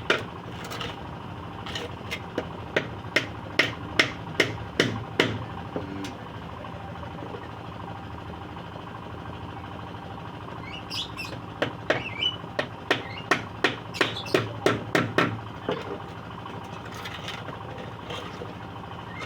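Hammer blows on scrap wood, as in nailing a small nest box together: two runs of quick, even strikes at about two to three a second, with a pause of several seconds between them.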